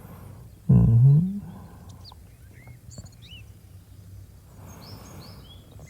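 Birdsong ambience of scattered short chirps, with a man's short low hum about a second in, the loudest sound.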